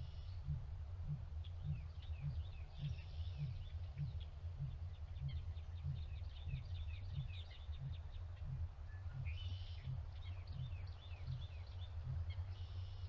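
Small birds chirping in quick runs of short high notes, over a steady low hum that pulses about twice a second.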